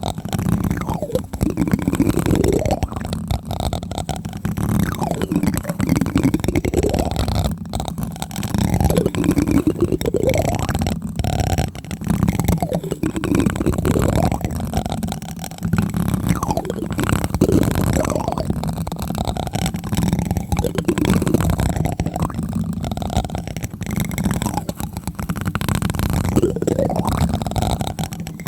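Plastic spoon tapping directly on a microphone, a dense run of low, muffled taps close on the mic.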